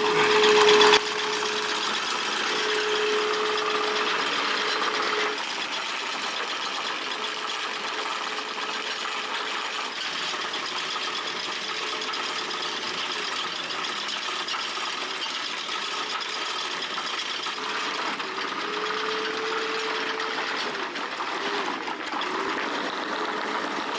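Anchor windlass running as the new anchor chain is let down, a steady mechanical hum with the chain running out. It drops in level about five seconds in, and a faint steady tone comes back briefly near the end.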